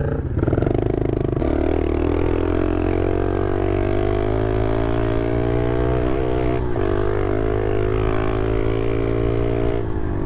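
Small motorcycle engine running steadily under way while riding. Its pitch climbs slowly over the first half, wobbles briefly about six seconds in, then holds and drops slightly near the end.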